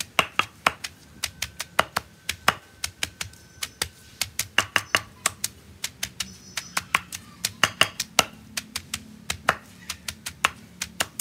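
Pestle pounding green papaya and tomato in a mortar to make som tam. The knocks are quick, sharp and irregular, about three to four a second and sometimes in quick pairs.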